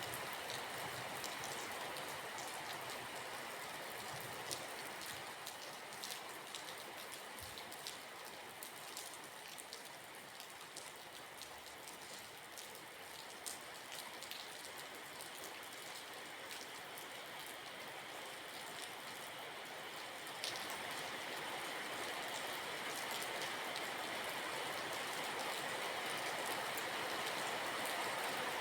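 Steady rain, a dense hiss scattered with many small drop ticks, getting a little louder about two-thirds of the way through.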